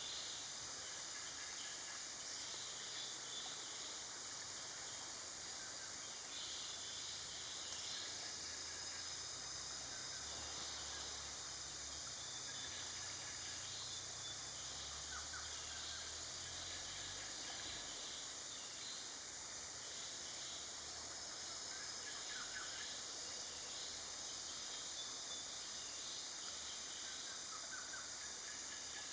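Steady high-pitched drone of insects, with a few faint, scattered bird chirps.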